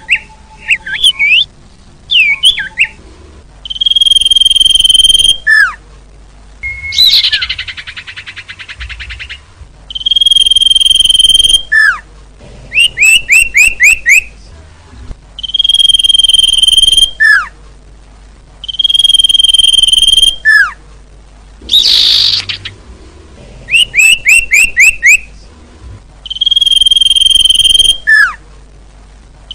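Bird-lure call recording of small songbird calls. Long level whistles, each held about a second and a half, alternate with runs of four or five quick down-slurred chirps. A buzzy rattle comes about seven seconds in, and a short buzzy note about twenty-two seconds in.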